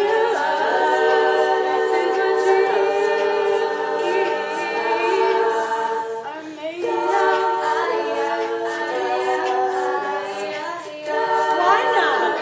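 A cappella group singing in close harmony: several voices holding chords under a lead line, with no instruments. The singing drops briefly about six and a half seconds in and again near the end.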